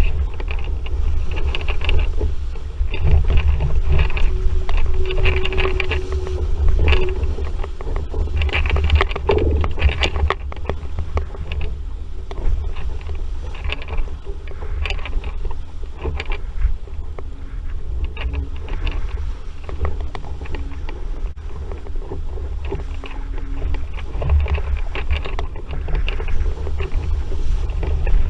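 Wind buffeting the microphone of a sailing RS Vareo dinghy in a stiff breeze, a constant low rumble, with frequent splashes and knocks of water against the hull.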